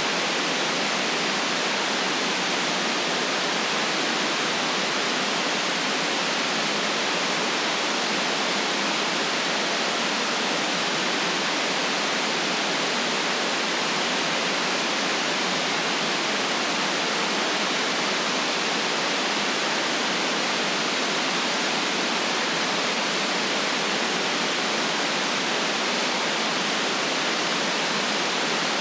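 Steady synthetic white noise: an even, unchanging hiss with no low rumble, cut off sharply at the top.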